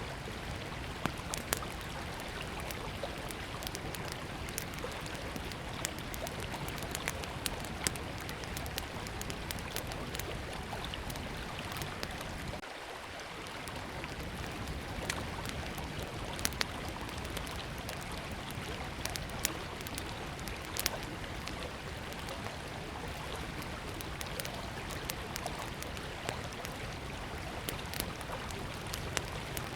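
Small wood campfire crackling with irregular sharp pops, over the steady rush of a flowing river.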